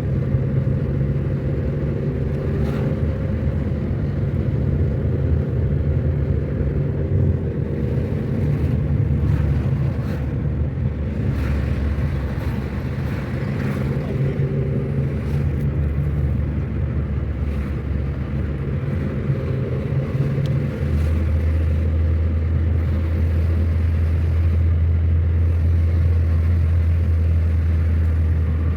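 A car driving on a mountain road: a steady low engine and road rumble. About two-thirds of the way through, the hum drops to a lower, steadier tone, as with a change of engine speed or gear.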